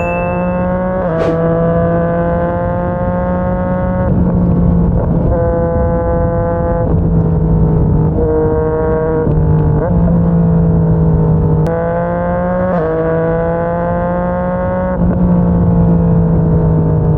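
Yamaha MT-09's three-cylinder engine through a Yoshimura R55 slip-on exhaust, running under way. Its pitch climbs slowly and drops back several times as it changes gears.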